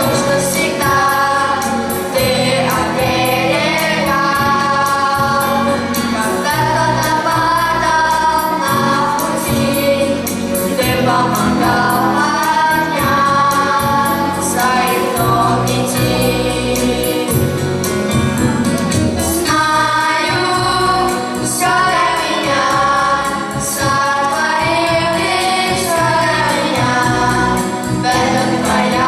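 A choir singing a hymn over instrumental accompaniment with a steady bass line.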